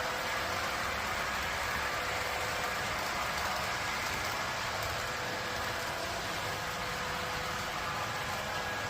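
Train running steadily: an even rushing noise with a constant hum throughout.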